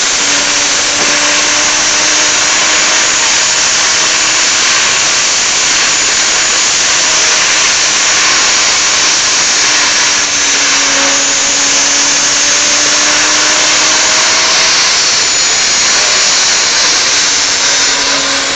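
Tractor-pull competitor's engine running flat out under load, loud and unbroken, with a faint engine tone drifting slowly up and down in pitch.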